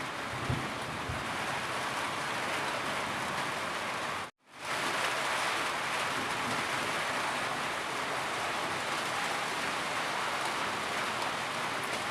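Steady rainstorm: an even hiss of falling rain, with a soft low thump about half a second in. About four seconds in the sound cuts out completely for a moment, then fades back in.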